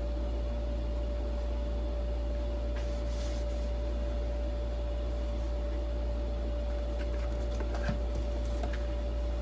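Steady low electrical hum with a faint, even whine over it, and light rustling and a few small clicks of packaging being handled.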